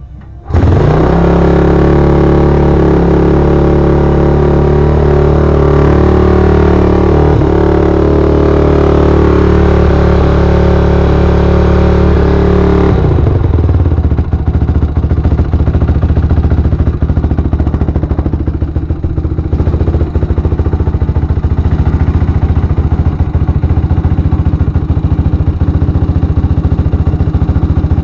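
Honda TRX450R's single-cylinder four-stroke engine running at a steady, rapid-pulsed idle for the second half, just after its top-end rebuild with a new cam. Before that, about the first half holds a loud, steady sound of held pitches that shift a few times.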